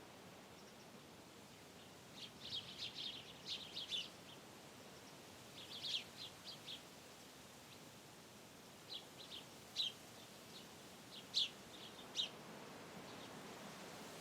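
Wind through trees as a steady, faint rush, with a small bird calling in four short bursts of quick, high chirps.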